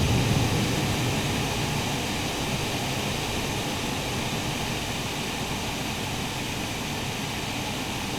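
Thunderstorm wind and rain making a steady rushing noise, a strong gust easing off over the first couple of seconds.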